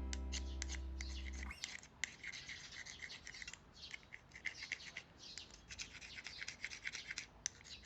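Background music ends about a second and a half in. A faint, irregular dry scratching and rubbing follows.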